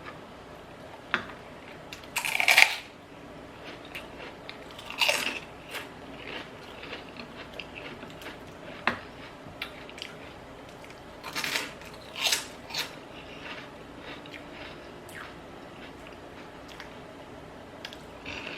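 Close-miked eating of a salad: several loud crunchy bites, the strongest about 2.5 s, 5 s, 11.5 s and 12 s in, with quieter chewing and a few sharp clicks between them.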